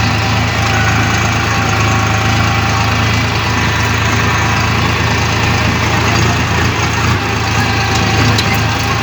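Tractor engine idling steadily, a constant low hum with no change in revs.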